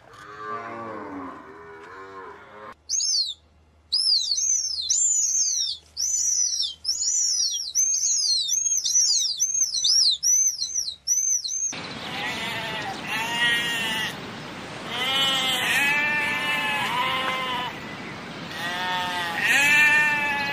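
Cattle lowing briefly, then raptor chicks giving a long run of repeated high, thin calls that rise and fall, then sheep bleating several times from about twelve seconds in.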